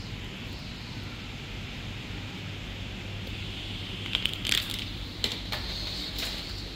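Steady garden background hiss with a low hum. From about four seconds in, several sharp crackles and clicks break through.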